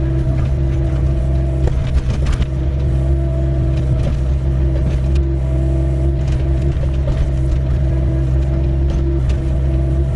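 Doosan 55W wheeled excavator's diesel engine running steadily while digging, with a few sharp knocks scattered through.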